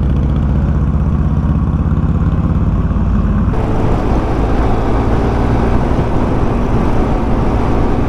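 Motorcycle engines running steadily while riding, a loud continuous engine note with a change in its pitch pattern about three and a half seconds in.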